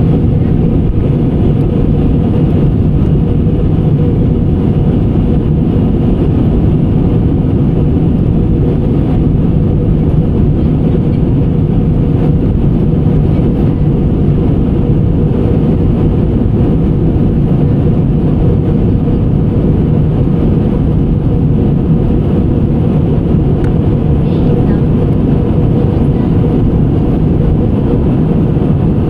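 Airliner cabin noise: a steady, loud drone of engines and rushing air with a low hum, holding even throughout.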